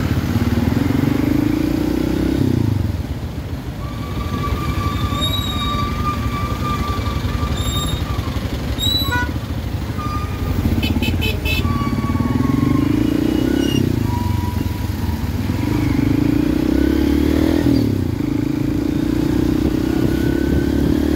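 Motorcycle engine running under way, its pitch rising as it accelerates and dropping back at each gear change, several times over, with constant wind and road noise. A held high tone sounds for a few seconds partway through, and a quick run of clicks follows.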